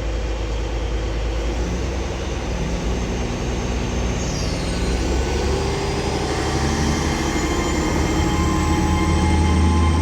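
Class 802 bi-mode train pulling away from the platform. A steady low drone runs throughout, and from about halfway a whine climbs in pitch as the train gathers speed, growing slightly louder.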